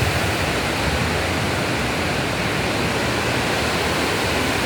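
Heavy rain pouring down, a steady, even rush of noise.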